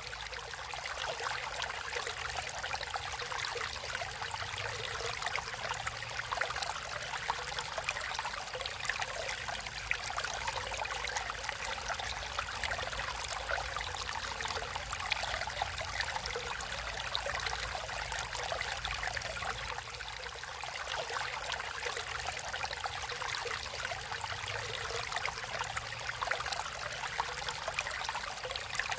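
Natural flowing water running steadily, a continuous even rush with fine splashing detail throughout.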